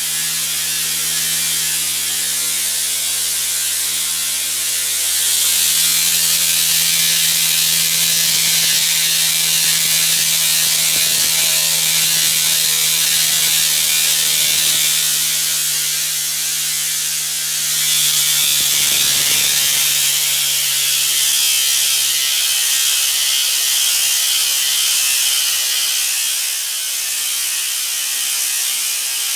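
Rea Tornado steam belt cleaner working on a running modular conveyor belt: a loud, steady hiss of steam over the rattling clatter of the belt's links and a low motor hum. The hiss grows louder about 5 seconds in and again about 18 seconds in.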